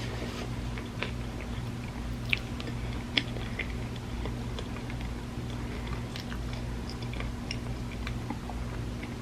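Close-miked chewing and biting of food, with scattered short crisp crunches and mouth clicks.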